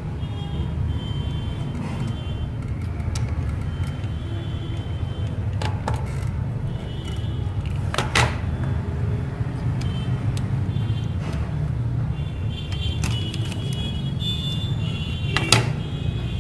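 A steady low background rumble with a few sharp clicks, the loudest about eight seconds in and near the end, as small phone parts are handled during a repair.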